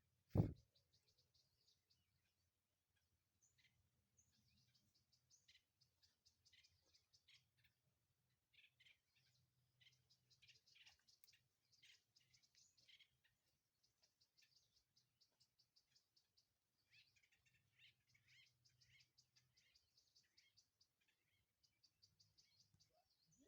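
Faint chirping of small birds, short high calls in quick runs through the whole stretch, with one sharp thump about half a second in that is the loudest sound.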